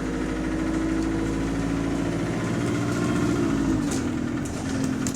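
Bus's diesel engine running, heard from on board, a steady drone whose pitch dips slightly about four seconds in.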